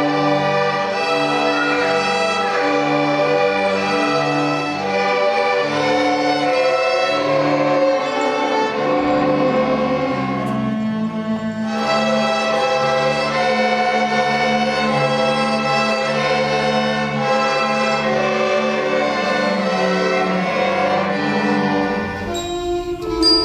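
A school orchestra playing an instrumental piece, with bowed strings (violins and cellos) to the fore. The texture changes near the end.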